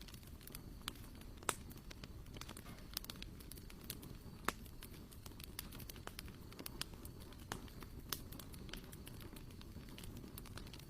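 Campfire crackling: irregular sharp pops and snaps, a few louder ones, over a low steady rumble.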